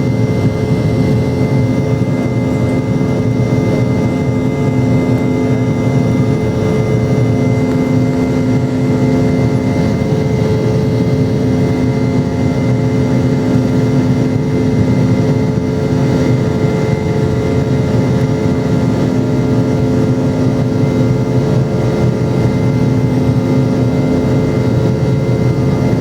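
Boeing 717's rear-mounted Rolls-Royce BR715 turbofan engines heard inside the passenger cabin: a steady loud drone with several steady tones running through it.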